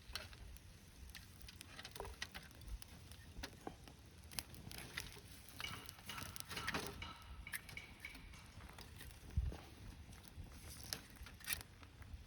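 Wood campfire crackling, with scattered sharp pops and ticks and one low thud about nine seconds in.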